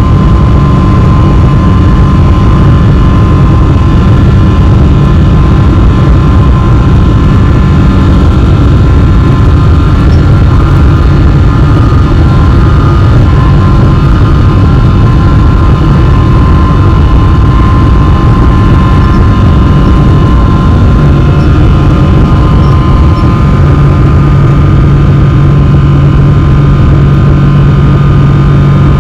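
A Boeing 777-300 airliner's jet engines running steadily and loudly: a constant roar with a high whine over it. A deeper hum grows stronger about three-quarters of the way through.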